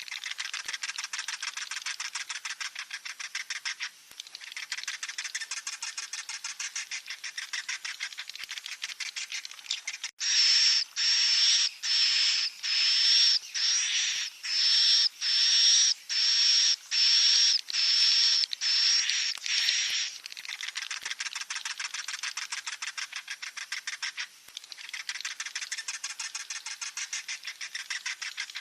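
Swiftlet chicks calling: a fast, dense chittering twitter. In the middle comes a louder stretch of about ten seconds of high-pitched calls, repeated roughly one and a half times a second, before the chittering resumes.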